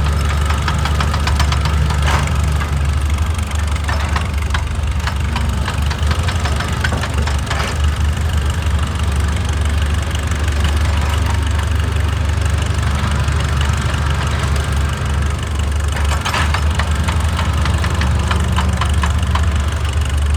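Excavator's diesel engine running steadily with a deep hum, with a fast light ticking and several louder knocks and scrapes over it.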